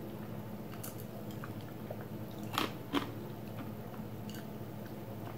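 Quiet chewing and sipping while eating breaded fried cheese sticks with a glass of drink. Two louder crunchy sounds come about two and a half and three seconds in. A steady low hum runs underneath.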